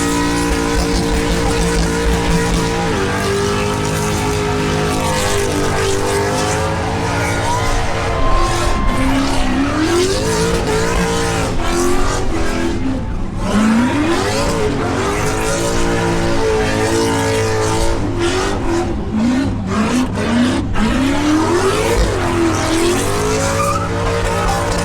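V8 muscle car doing a burnout: the engine revs up and falls back over and over while the spinning rear tires squeal without a break.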